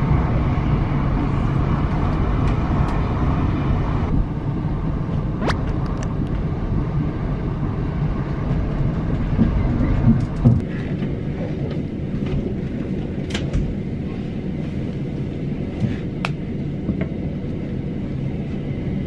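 Passenger train carriage interior: the steady low rumble of the train running along the track, with a few faint sharp clicks.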